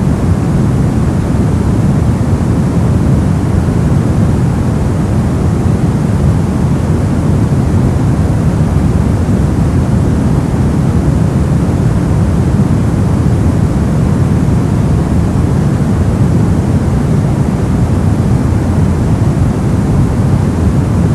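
Brown noise: a steady, deep rumbling hiss, heaviest in the bass and falling away toward the treble, unchanging throughout.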